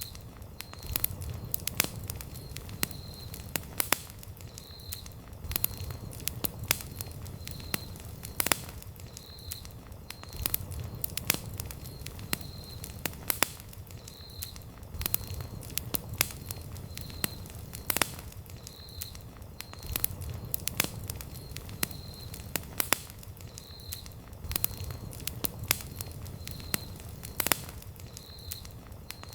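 Wood campfire crackling, with frequent sharp irregular pops and snaps over a low rumble of burning.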